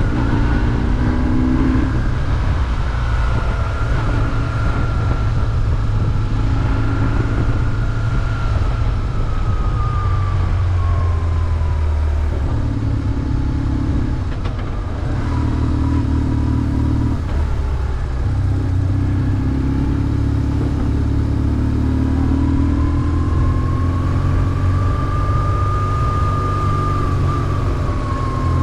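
BMW R1150GS air-cooled boxer twin running under way, with road and wind noise. The engine note drops and changes a few times around the middle, and a fainter higher whine rises and falls slowly.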